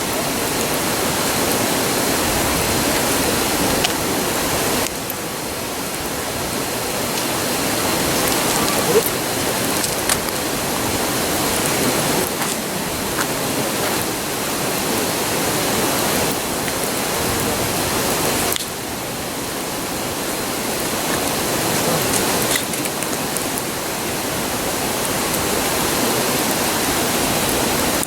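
A river rushing in a steady roar, with a few sharp crackles from the campfire's burning wood.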